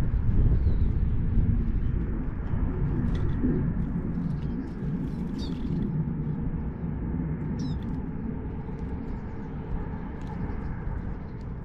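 A low rumble that slowly fades, with a few short, high bird chirps about five and seven and a half seconds in.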